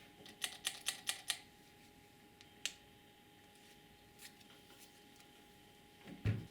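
Light, sharp clicks of small hard objects being handled: a quick run of about six clicks, one more a second later, then a dull knock near the end.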